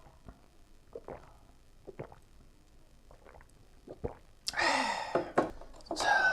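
Eating and drinking mouth sounds: a few faint clicks for the first few seconds, then louder noisy sips or slurps over the last two seconds.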